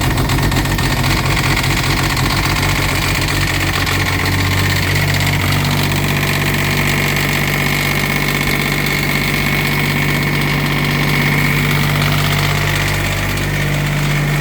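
Kubota G1800-S diesel engine running just after a hard cold start, uneven for the first few seconds and then settling into a steady idle.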